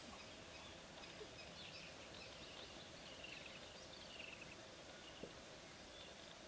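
Quiet dry-forest ambience with faint birds calling now and then in short, high chirps, and one faint click about five seconds in.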